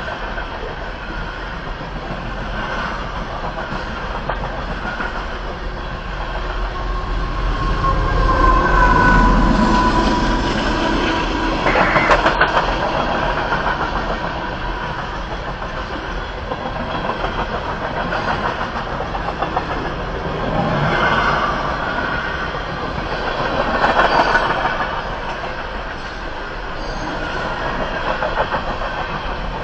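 Steady rumbling vehicle noise that swells louder several times, with a brief high tone about eight to ten seconds in.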